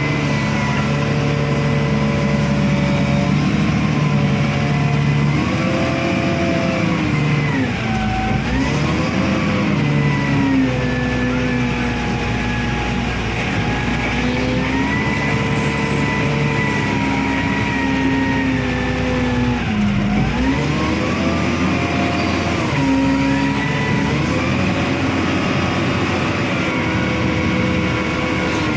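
Wheel loader's diesel engine running hard. Its pitch holds mostly steady but twice sags sharply and climbs back, about eight and twenty seconds in.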